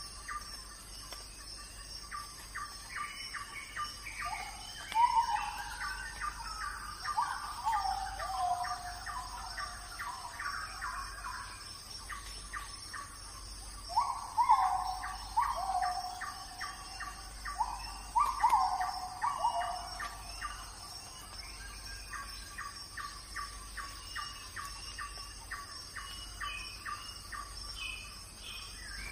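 Birds calling: a fast run of short chirps throughout, and twice a spell of several seconds of louder whistled notes that fall in pitch.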